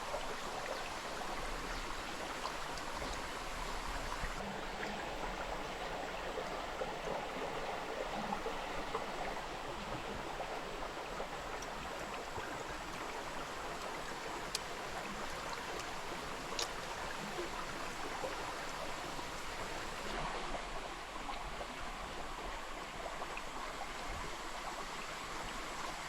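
Stream water running steadily, with two faint ticks a couple of seconds apart near the middle.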